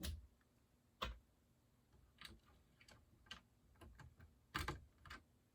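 Hard plastic Lego pieces clicking as they are handled and pressed into place: faint, irregular sharp clicks, about seven or eight of them.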